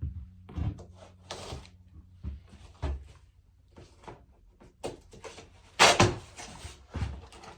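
Irregular knocks and thumps with short scraping or rustling noises, as of things being handled and moved; the loudest, a sharp knock with a scrape, comes about six seconds in.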